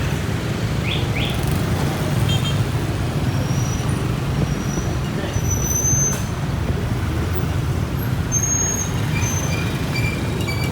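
Steady rumble of a motorbike riding through city traffic, with a few brief faint high tones in the background.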